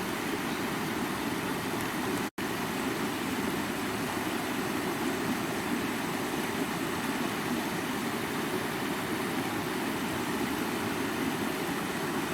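Stream water rushing and splashing over rocks, a steady, full-bodied rush. It cuts out completely for a split second about two seconds in, then carries on unchanged.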